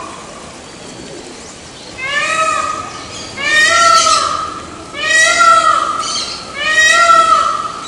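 Peafowl calling: four loud, ringing, arched calls of about a second each, repeated roughly every second and a half, the first one weaker.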